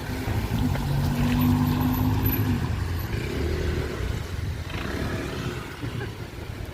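A motor vehicle's engine humming as it passes on a street, loudest about a second or two in, over a steady low rumble of wind.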